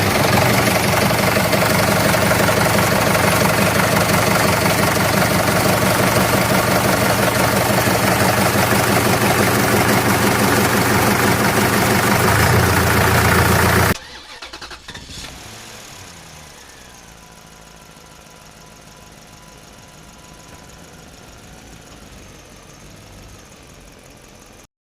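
A motor or engine running loudly and steadily, then dropping suddenly to a much quieter hum about 14 seconds in.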